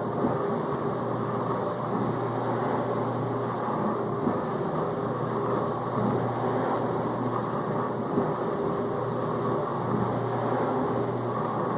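Whirlpool dishwasher in its main wash, the circulation pump running and spraying detergent water around the tub. It makes a steady wash of water noise over a low, even hum.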